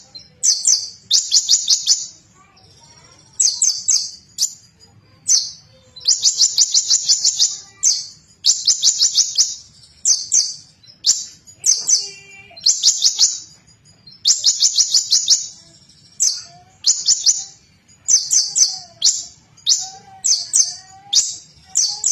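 Konin bird singing loudly in repeated bursts: each a rapid, high, chattering trill about a second long, coming every couple of seconds, with softer lower whistled notes between bursts in the second half.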